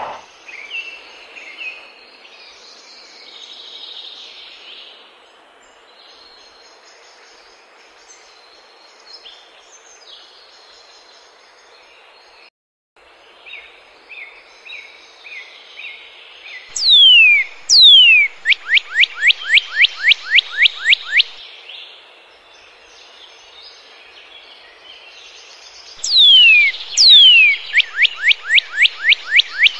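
Birds chirping softly over a steady outdoor hiss. Twice a loud bird call stands out: two long falling whistles, then a quick run of about a dozen falling notes, some four a second. The background cuts out for a moment about halfway through.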